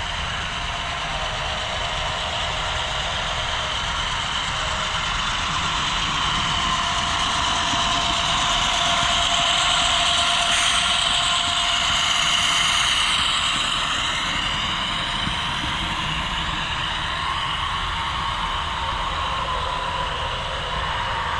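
HO scale model train running past on the layout, its motor and wheel noise steady, growing louder toward the middle and then easing off as it moves away.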